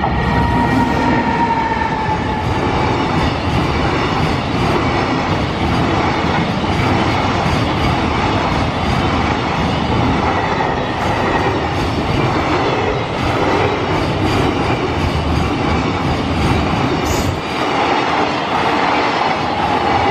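A freight train hauled by an EF210 electric locomotive passes close by. The locomotive goes past at the start, followed by a long string of loaded container wagons rolling past on steel wheels with a steady, loud rumble.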